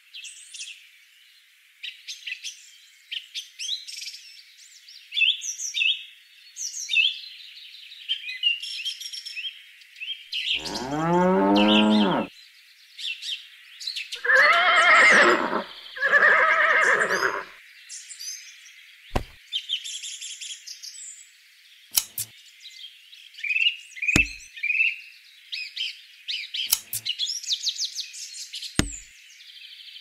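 Birds chirping throughout, with a cow mooing once in one long call and two more calls following a couple of seconds later. A few sharp clicks come near the end.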